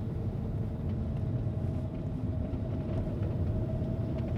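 Steady road and engine rumble heard inside the cabin of a moving Hyundai Sonata, with a faint steady hum running through it.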